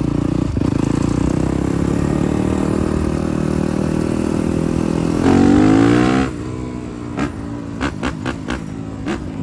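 Dirt bike engine running, then revved with a rising pitch about five seconds in for about a second before dropping back. A few sharp clicks follow near the end.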